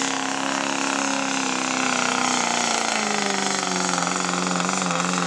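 Diesel pickup engine running hard in a truck pull. Its engine speed falls about halfway through, then holds steady at the lower pitch.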